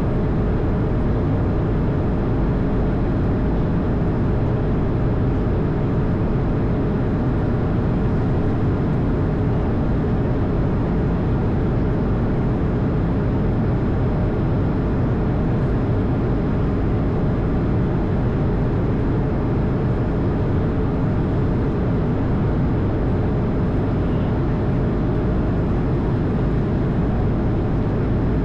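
Steady, unbroken engine and airflow noise of an Airbus A220 heard inside the cockpit: a deep rumble from its Pratt & Whitney PW1500G geared turbofans with a faint steady hum above it.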